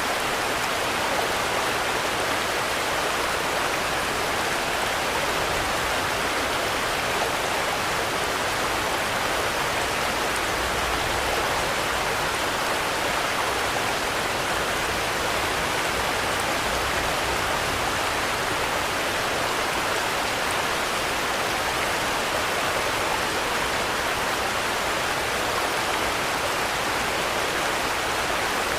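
Steady rain falling, an even, unbroken hiss with no thunder or breaks.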